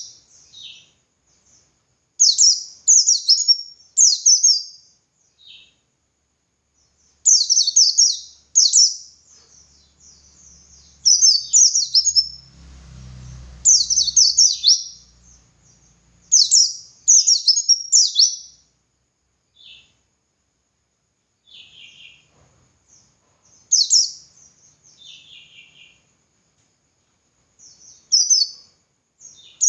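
White-eye (pleci) singing in short bursts of rapid, high chirping, each phrase about a second long, separated by pauses. A faint low rumble sounds briefly about halfway through.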